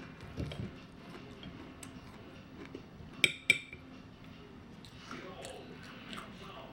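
Metal cutlery clinking twice against a dish, two sharp ringing clinks about a third of a second apart a little after three seconds in, with a few soft handling sounds around them.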